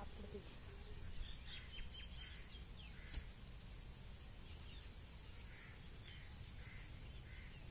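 Faint outdoor background with a steady low rumble and scattered short bird chirps, a cluster of quick chirps early and a few rounded calls in the second half. A single sharp click about three seconds in.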